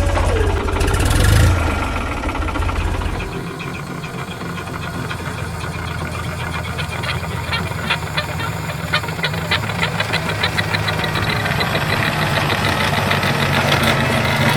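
Engine running with a knocking rhythm. A tone drops in pitch at the start and there is a loud rush about a second in, after which it settles into a steady run of rapid regular ticks.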